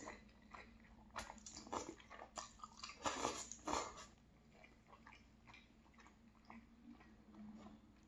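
Close-miked mouth sounds of a person chewing a mouthful of linguine in tomato sauce: soft wet smacks and clicks in short bursts for about four seconds, then fainter and sparser.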